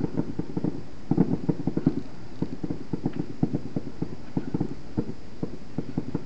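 Fireworks crackling: many rapid, irregular small pops coming in dense clusters.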